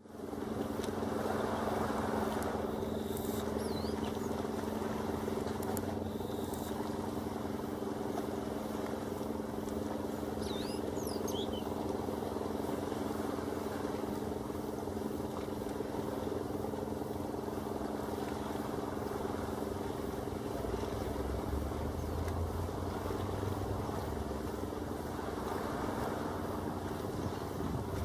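A steady machine drone holding several low tones throughout, with a few brief, faint bird chirps about three to four seconds in and again around ten to twelve seconds in.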